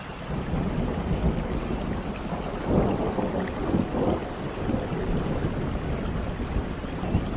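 Steady rain falling, with a deep rumble of thunder that swells about a second in and keeps rolling.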